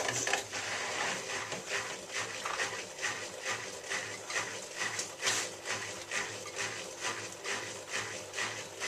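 Miele W3744 front-loading washing machine running, with a steady motor hum and a regular knocking about two to three times a second as the drum turns.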